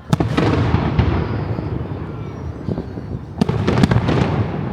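Aerial fireworks bursting: a loud bang just after the start trails off into crackling, then a second cluster of sharp bangs comes about three and a half seconds in.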